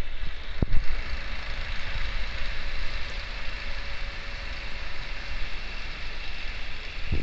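An engine running steadily: a low rumble under an even hiss, with one sharp click about half a second in.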